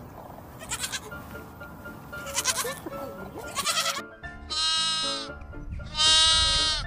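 A young goat bleats three short, wavering times, then a lamb gives two longer bleats, the second the loudest, over background music.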